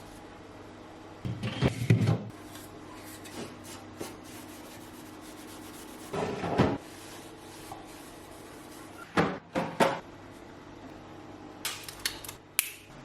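Items and fittings being handled in a refrigerator during cleaning: four short clusters of knocks, clunks and rubbing, over a faint steady hum.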